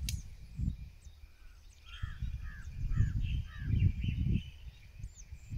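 A bird calling, about five short arching notes in quick succession a couple of seconds in, over an irregular low rumble of wind buffeting the microphone. A sharp click comes right at the start.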